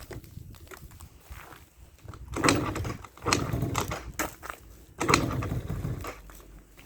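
Yamaha Jog Aprio scooter's small two-stroke engine on a cold start after weeks of standing, going in three loud, rough bursts about two, three and five seconds in, with a quieter rough running between.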